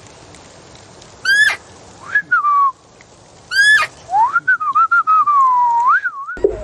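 Bird calls: two short, sharply rising whistles a little over two seconds apart, each followed by a longer wavering whistle that glides up and down. The sound cuts off suddenly just before the end.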